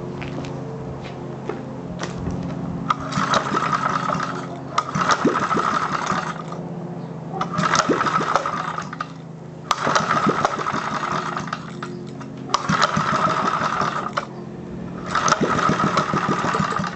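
Rebuilt Briggs & Stratton single-cylinder small engine running, its speed rising and falling in a regular cycle about every two and a half seconds, six times over. The engine is running but not yet tuned.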